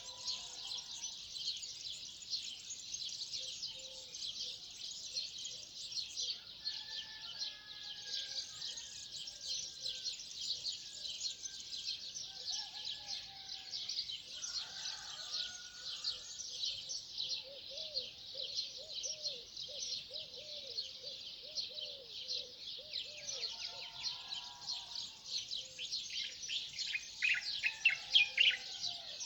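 A dawn chorus of many birds chirping together in a dense, unbroken high-pitched wash, with scattered lower calls in between. Midway a run of about a dozen quick repeated low notes sounds, and near the end a bird chirps loudly close by.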